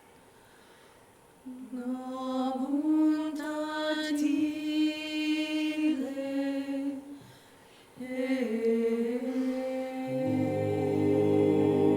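A solo voice sings long held notes unaccompanied, stopping briefly once. About two seconds before the end, lower voices join in with sustained a cappella choral harmony.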